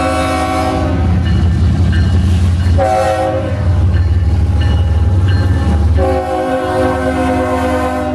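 CSX freight locomotive's air horn sounding a grade-crossing sequence: the end of one blast, a short blast about three seconds in, then a long blast from about six seconds, over the steady low rumble of the locomotive's engine.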